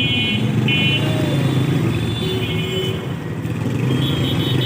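Motorcycle engine running under way, mixed with rushing wind and road noise.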